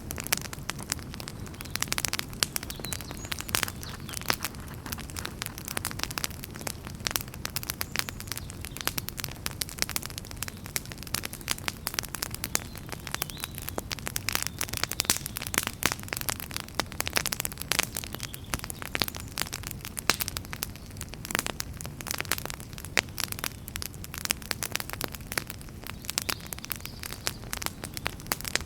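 Wood fire burning in a fireplace: dense, irregular crackles and pops over a steady low rumble of flame.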